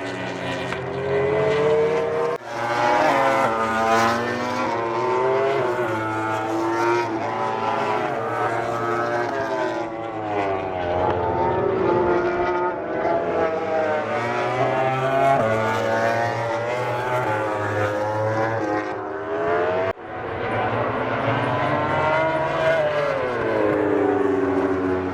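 Several MotoGP racing motorcycle engines at high revs, their pitch climbing and dropping again and again as the bikes accelerate, shift and brake, with more than one bike heard at once. The sound breaks off abruptly twice, about two and a half seconds in and again about twenty seconds in.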